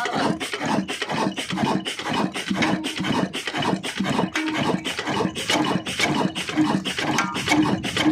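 Old 28 HP Ruston diesel engine running, with an even beat of about three to four knocks a second over a rasping noise from the flour mill it drives.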